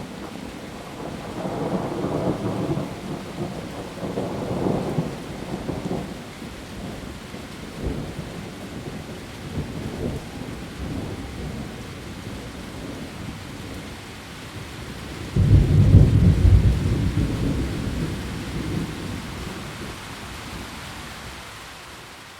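Heavy rain falling steadily on leaves, with thunder: softer swells in the first few seconds, then a loud peal that starts suddenly about two-thirds of the way through and dies away over several seconds.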